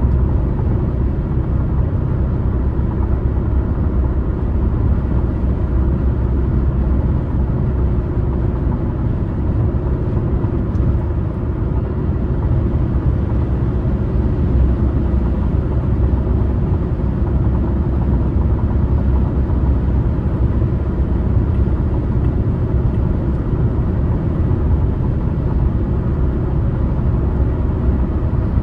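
A car driving steadily on a highway: constant low road and tyre rumble with the engine underneath, unchanging throughout.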